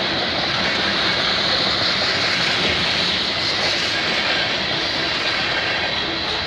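Freight train cars rolling past close by: a steady, loud noise of steel wheels on the rails as covered hoppers, a tank car and a boxcar go by.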